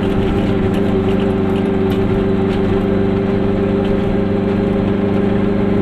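Goggomobil's small two-stroke twin-cylinder engine running steadily while the car drives along at an even speed, over a haze of road noise.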